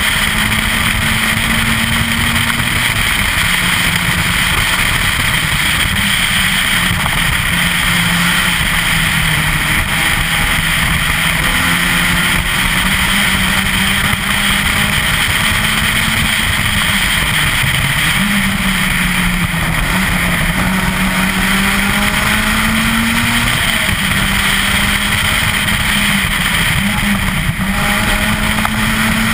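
Citroën Saxo VTS 16V rally car's 1.6-litre sixteen-valve four-cylinder engine driven hard on a stage, its note rising and falling repeatedly through gear changes and lifts, over a steady hiss.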